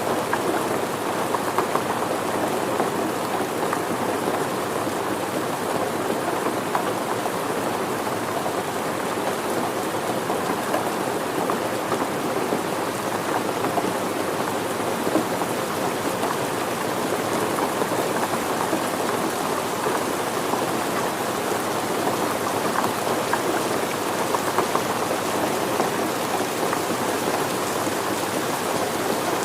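Steady rain falling and pattering on surfaces, an even rushing hiss with the patter of individual drops.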